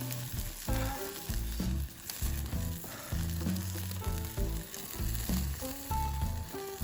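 Steady sizzling from chicken skewers grilling over a wood fire, under background music with a stepping bass line.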